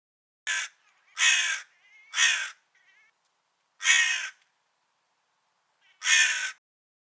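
Crow cawing: five harsh caws, the first three close together, then one after a pause and a last one near the end.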